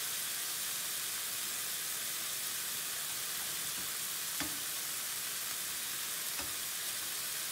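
Chicken breast pieces sizzling steadily in oil in a nonstick frying pan, with a few light clicks of metal tongs against the pan as pieces are flipped. The sharpest click comes about halfway through.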